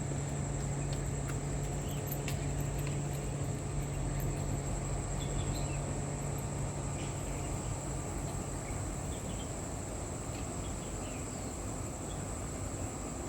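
A boat engine running with a steady low drone that fades after about eight seconds, over a constant high-pitched insect trill.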